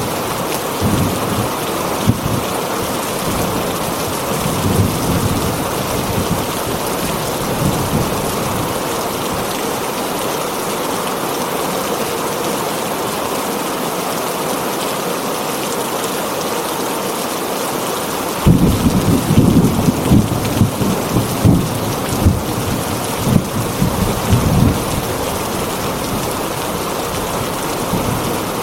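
Heavy rain on a tin roof, a steady hiss, with rolls of thunder: a low rumble in the first few seconds, then a louder, longer rumble starting about two-thirds of the way in and lasting several seconds.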